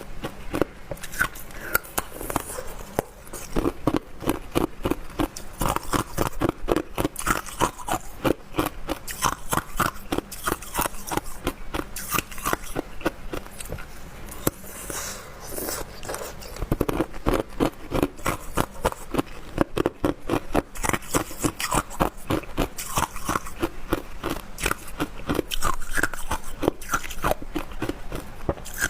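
Hard ice being bitten and chewed: a rapid, continuous run of crisp crunches and cracks.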